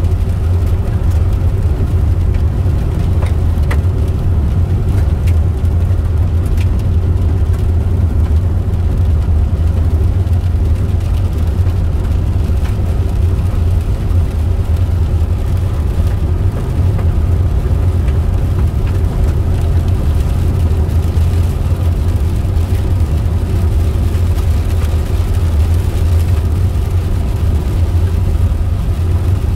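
Steady low drone of a car on the move: engine and road noise without any change in pace.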